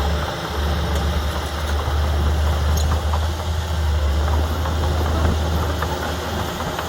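Diesel engine of a Komatsu D31P crawler bulldozer running steadily, with a strong low hum.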